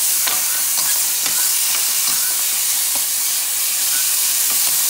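Chopped onion and tomato sizzling in melted margarine in a hot stainless steel pan, with a metal spoon clicking and scraping against the pan as it is stirred. The steady hiss runs under light clicks every half second or so.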